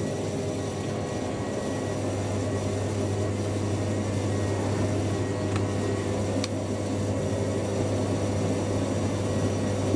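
Washing machines running mid-cycle: a steady mechanical hum of motor and pump, with two faint clicks about halfway through.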